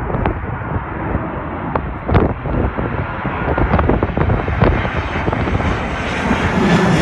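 Airplane on landing approach flying low overhead, its engine noise growing brighter and slightly louder as it closes in near the end.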